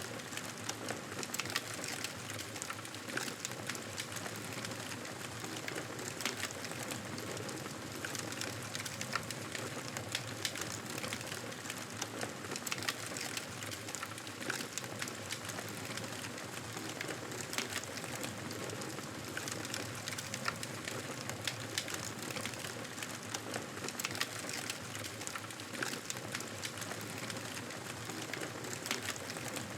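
Wood fire burning: a steady hiss with frequent small, sharp crackles and pops throughout.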